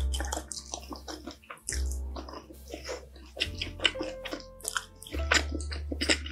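Close-miked wet chewing and mouth sounds of someone eating kimchi fried rice, with many small sharp clicks and smacks. Soft background music with a held bass line plays under it.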